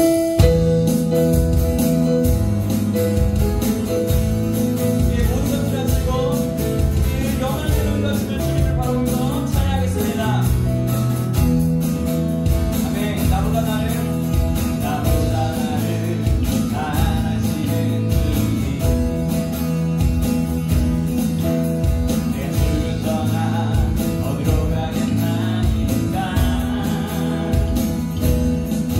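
Live worship band playing a song with a steady drum beat: acoustic guitar, keyboard, bass guitar and electronic drums, with singing coming in a few seconds in.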